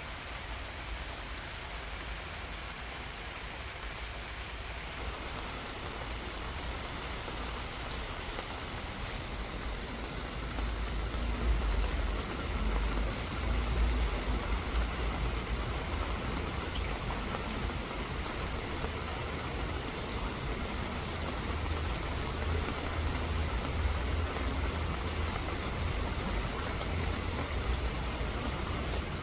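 Steady rain falling, with a low rumble that swells about ten seconds in.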